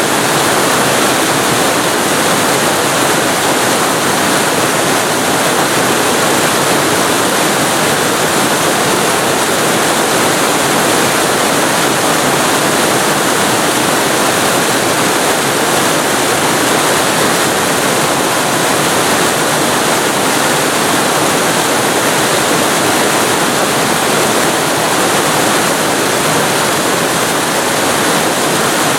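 Waterfall recorded very close to the falling water: a loud, steady rush of water with no changes.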